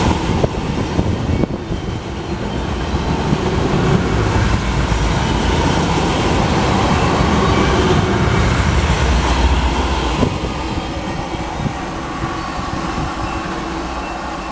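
Loaded tank cars of a long freight unit train rolling past over the rails at close range. The sound eases to a quieter rumble about ten seconds in as the tail end of the train goes by.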